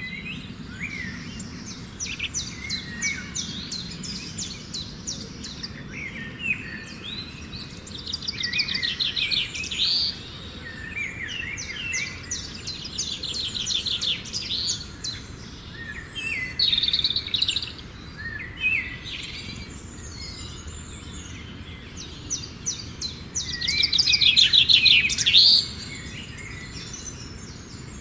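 Birds singing and calling, with quick rattling trills and chirps coming again and again, loudest near the end, over a steady low background rumble.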